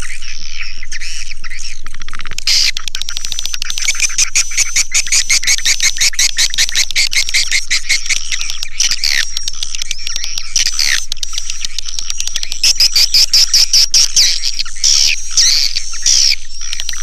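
Swiftlets twittering in a dense, continuous chatter of high chirps and rapid clicking trills, with stretches of evenly pulsed louder chirps, as used for a swiftlet lure call.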